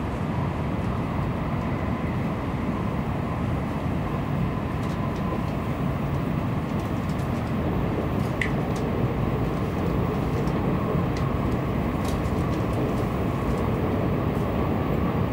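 Tokaido Shinkansen train running at speed, heard inside the passenger car: a steady deep rumble with a faint whine. A short high chirp comes about eight seconds in.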